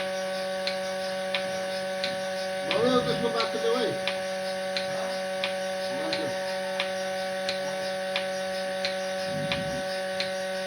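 Steady electric machine hum with a light, regular click about every 0.7 seconds. A voice-like call is heard briefly about three seconds in, and more faintly twice later.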